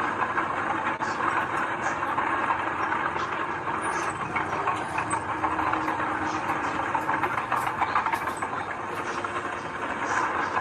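Heavy earthmoving machinery running steadily, a continuous mechanical din with faint clanking.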